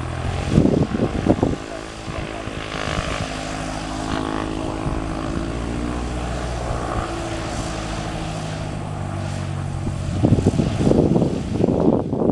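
Cessna 172N Skyhawk's four-cylinder Lycoming engine and propeller at low power, a steady drone whose pitch wavers slightly in the middle. Irregular low rumbling covers it at the start and again from about ten seconds in.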